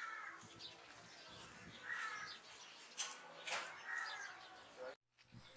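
Faint birds calling, with arched calls about every two seconds and a few sharp chirps between them, cutting off suddenly near the end.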